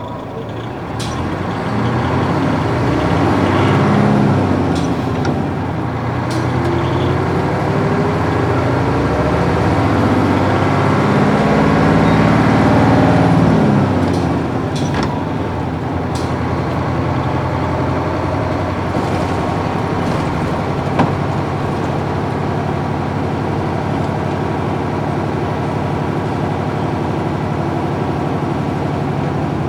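Nissan Diesel UA440 bus's PF6 diesel engine and five-speed gearbox heard from inside the cabin. The engine note climbs, drops as a gear is changed about four seconds in, climbs again, then falls away about fourteen seconds in and settles to a steady run, with a few sharp clicks.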